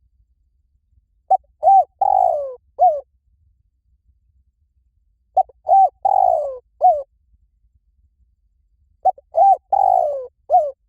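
Spotted dove cooing its phrase three times, about four seconds apart. Each phrase is four low coos: a short note, a double note, a long falling note and a short falling note.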